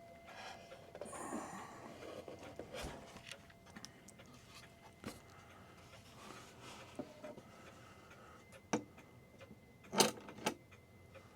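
A New England Clock Company clock movement ticking, with small clicks and knocks of hands working on the clock and its hand nut. A few sharper knocks come near the end.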